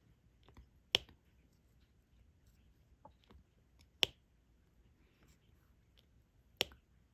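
Diamond-painting stylus setting small resin drills onto the adhesive canvas: sharp little clicks, three loud ones about a second in, at about four seconds and near the end, with fainter ticks between.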